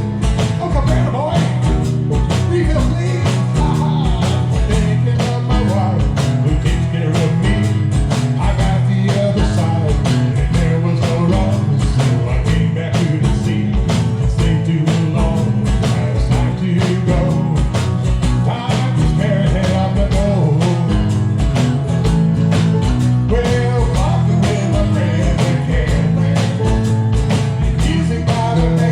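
Live band music with a steady drum beat: electric guitar, steel drums, drum kit, hand percussion and bass playing an upbeat island-style country-rock song.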